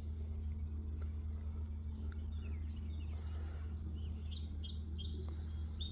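Songbirds singing: scattered chirps that grow busier past the middle, ending with a quick trilled phrase. A steady low rumble of background noise runs underneath.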